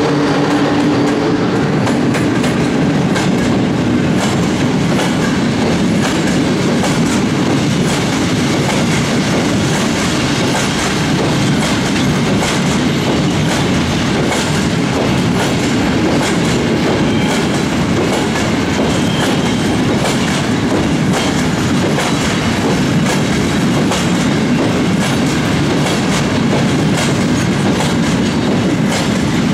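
Freight train of loaded container flat wagons rolling past close by at steady speed, wheels clicking rhythmically over the rail joints. A steady hum from the passing electric locomotive fades out in the first couple of seconds.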